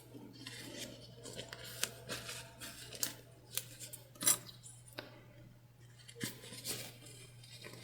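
Scattered light clicks and soft fabric rustling as sewing clips are snapped onto the matched edges of the bag's fabric pieces.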